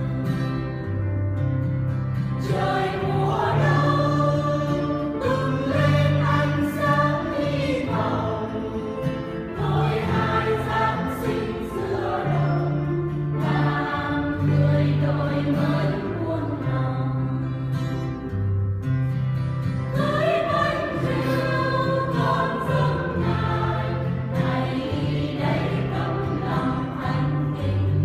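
Church choir singing a hymn in parts, over an accompaniment whose bass line moves in long held notes.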